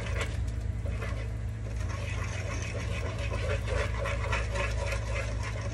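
Puto batter being mixed by hand in a bowl: quick, rhythmic scraping and clicking of the mixing utensil against the bowl, over a steady low hum.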